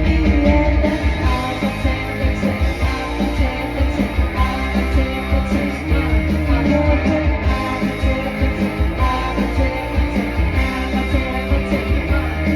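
Live band playing a rock song, with a singing voice over electric guitar, bass and drums.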